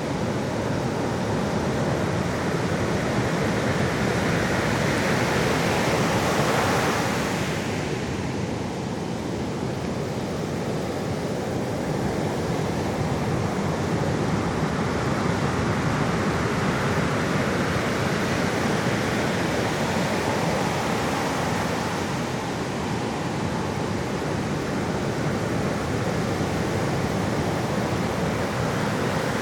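Sea waves washing onto the shore in a steady rushing noise, swelling a little about seven seconds in.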